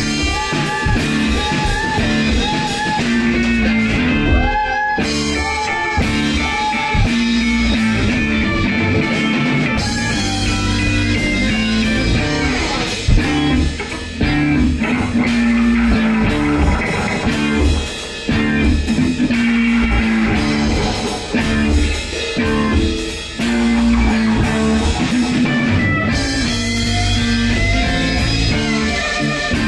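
A rock band rehearsing an instrumental passage: electric guitar playing over bass guitar, loud and steady, with a short repeating guitar figure in the first several seconds.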